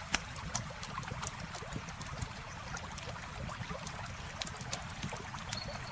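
Campfire crackling, with frequent sharp pops, over a steady low rush of flowing water. A brief high whistle sounds near the end.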